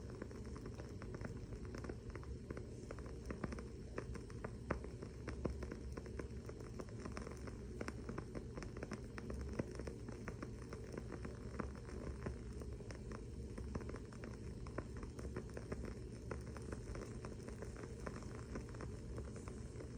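Wooden-wick candle crackling: a steady run of small, irregular pops and snaps over a low, steady background hum.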